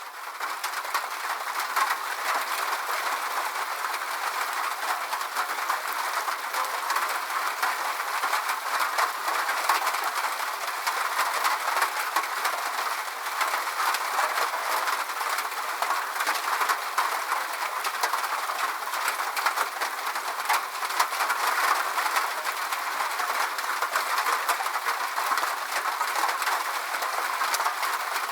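Steady rain, a dense patter of many drops with no pauses, fading up from silence in the first second.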